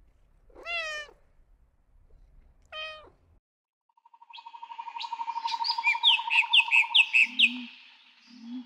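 A tabby cat meows twice, short calls a couple of seconds apart. After a brief gap, birds chirp rapidly in quick descending notes over a steady fast trill.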